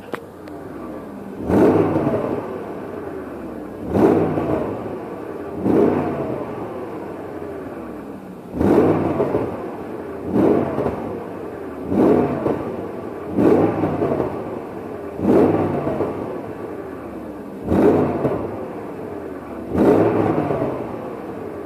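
Exhaust note of a BMW E38 740i V8 being free-revved in about ten short throttle blips, each rising sharply and falling back to idle, roughly every two seconds.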